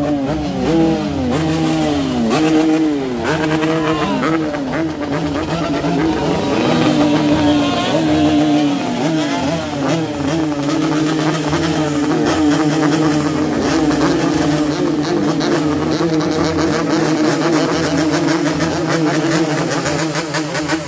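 Yamaha RX-King two-stroke motorcycle engine being revved hard in place: for the first few seconds the pitch rises and falls in quick throttle blips about once a second, then it is held at high revs with the pitch wavering up and down.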